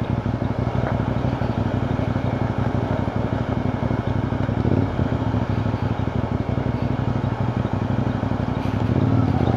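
CFMoto 450NK motorcycle's parallel-twin engine running at low, steady revs while riding.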